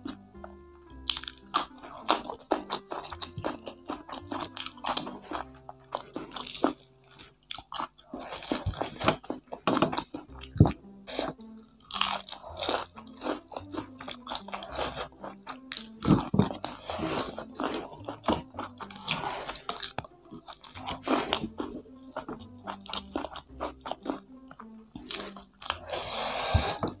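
Close-miked chewing and crunching of crispy fried chicken coated in kremes crumb flakes, with bites of raw lettuce, a rapid run of crisp crunches and biting. Soft background music plays underneath, and a longer stretch of loud crunching comes near the end.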